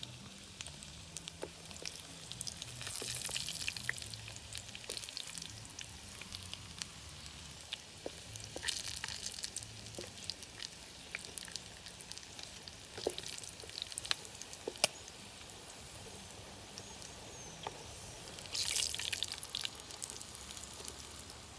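Duck organs frying in a pan, a steady sizzle full of small crackles, with the clicks and scrapes of two long wooden sticks stirring the meat against the pan. The sizzle swells louder about three seconds in and again near the end.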